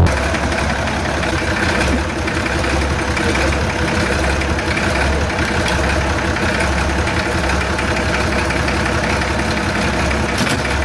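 Vehicle engine idling steadily with a deep, even hum.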